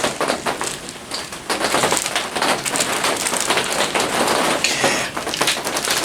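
Steady rain falling on the roof overhead, heard from underneath as a dense mass of small drop impacts.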